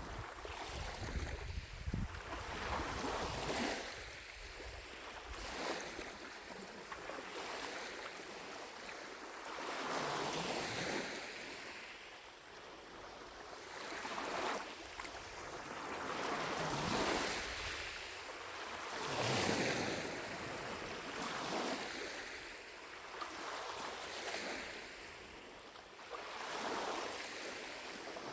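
Small lake waves lapping on the shore, each one washing in and fading every two to three seconds.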